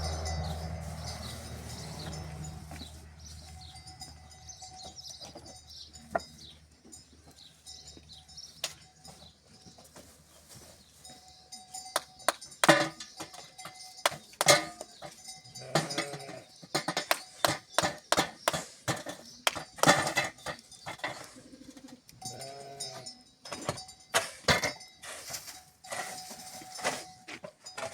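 Livestock bleating a few short times, among many sharp clicks and knocks in the second half.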